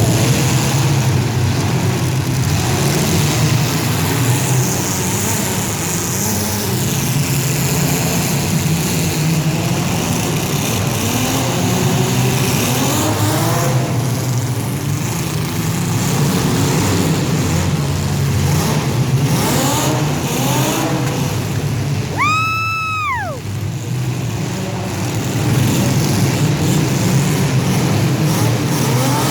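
Several compact-car engines running and revving hard, their pitches climbing and falling over one another. About 22 seconds in, a short high-pitched tone bends up and then falls away.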